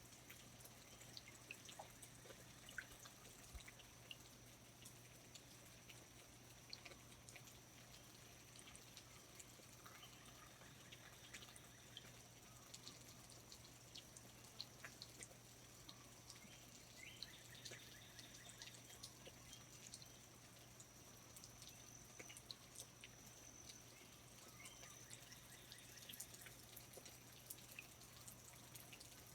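Faint rainforest ambience: scattered water drips ticking irregularly, over a steady thin high tone and a low hum.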